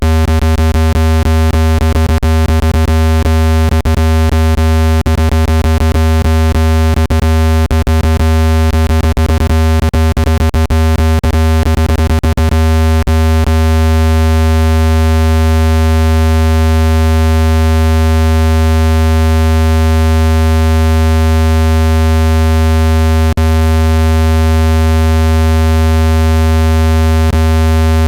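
Speaker-cleaning tone: a loud, steady, low-pitched electronic buzz rich in overtones, played to vibrate dust out of a phone speaker. Irregular clicks run through it at first and stop about 13 seconds in.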